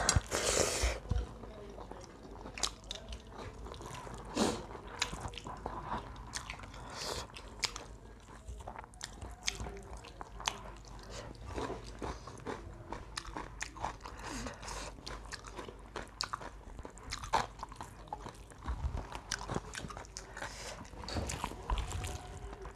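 People chewing and biting food, with many short, crisp crunches and mouth clicks scattered through.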